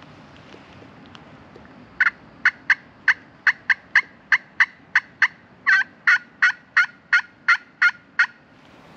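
Glass friction turkey call (pot call) run in a loud, fast series of about nineteen sharp hen yelps, roughly three a second for about six seconds, made to cut through the wind. Wind rushes steadily underneath.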